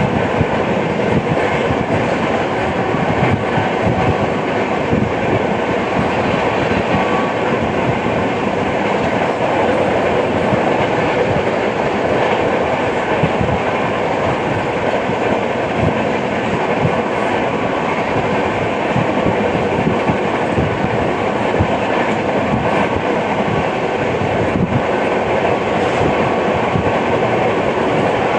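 Passenger express train running at speed, heard on board: a steady rumble and rattle of steel wheels on the track, with clickety-clack over the rail joints.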